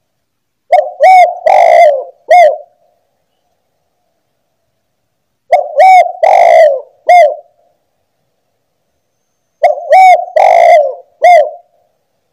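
Spotted dove (tekukur) cooing: three loud phrases, each of about four low coos, a few seconds apart.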